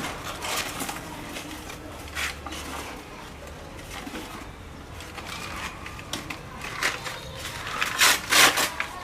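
Chopped tomatoes being transferred into a cooking pot: irregular wet scrapes and knocks of the food and utensils, with a cluster of louder ones near the end.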